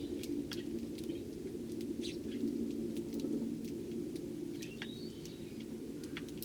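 Eurasian tree sparrows giving a few short chirps, with one brief gliding call about five seconds in, over a steady low hum.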